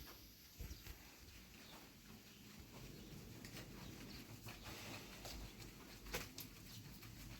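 Faint background with scattered light clicks and knocks, one sharper knock a little after six seconds in.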